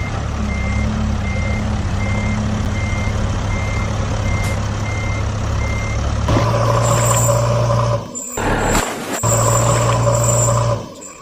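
Electronic sound effects from toy trucks: a reversing beep repeating about two and a half times a second over a low engine hum, then at about six seconds a louder engine-hum loop with a high whine takes over, cutting out twice briefly near the end.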